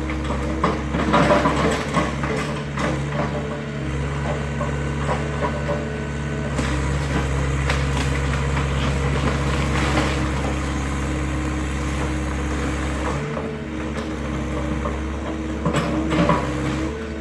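Excavator engine running steadily under load while it breaks up a wooden garage, with cracking and splintering of timber, heaviest in the first few seconds and again near the end.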